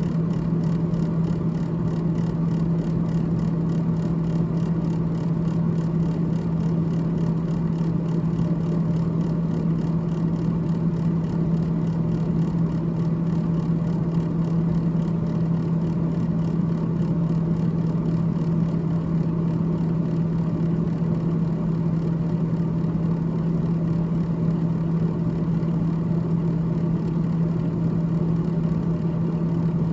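Freezer evaporator fan of a GE GTH18XCTZRBB refrigerator running with a steady whir and a constant low hum.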